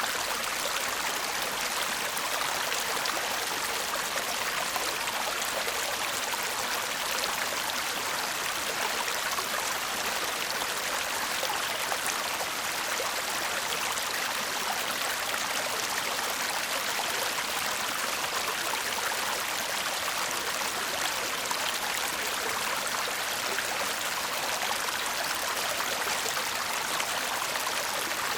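Shallow stream babbling steadily over stones, a continuous bright rush of water with fine flickering splashes.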